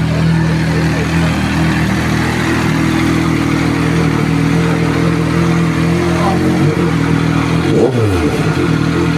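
A vehicle engine idling steadily with a low, even hum. About eight seconds in, another engine passes, its pitch falling quickly as it goes by.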